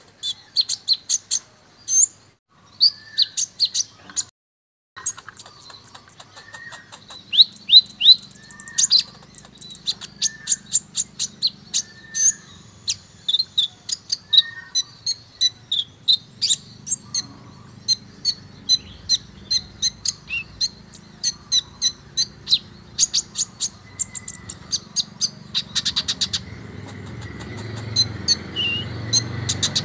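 Sunbird song: a rapid run of high, sharp chirps and trills, several notes a second, broken by a brief silence about four seconds in. A faint low hum sits underneath and grows louder near the end.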